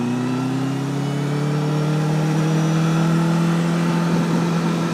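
Honda CBR1000RR's inline-four engine running as the bike rides off, its tone rising slowly and steadily.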